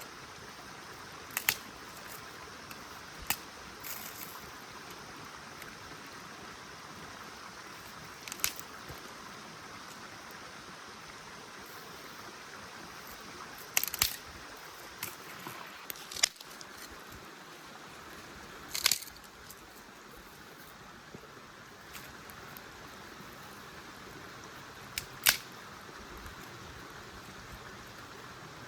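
Scattered sharp clicks and knocks, about eight spread out and irregularly spaced, over a steady faint hiss.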